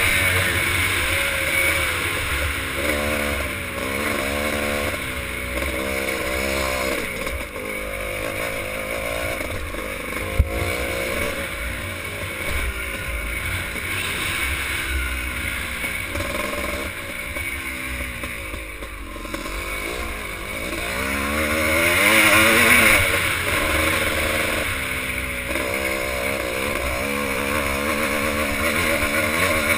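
Vintage motocross bikes racing, their engines revving up and falling away again and again as they accelerate and shift, several at once. A single sharp knock sounds about ten seconds in.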